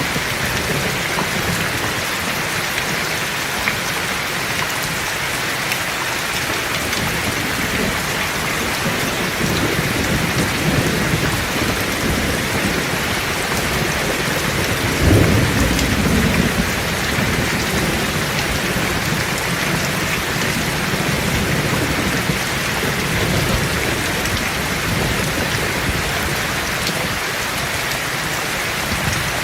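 Heavy rain falling steadily, with one roll of thunder about halfway through that rumbles for a second or two and then fades.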